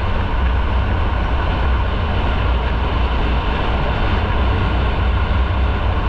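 Motorcycle on the move: a steady engine and road rumble with heavy wind noise on the microphone, no change in pace.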